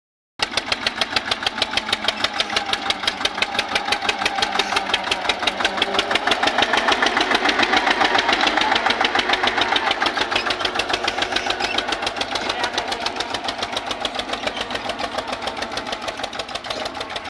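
Eicher tractor's diesel engine running with an even, rapid beat, growing louder toward the middle and easing off again.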